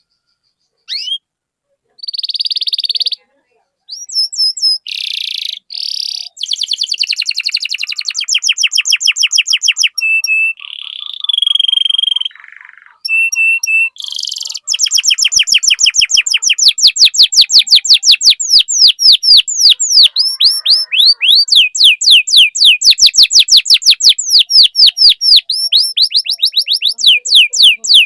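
Domestic canary singing. Short chirps and whistled phrases come first. From about halfway it breaks into a long, fast trill of rapidly repeated downward-sweeping notes.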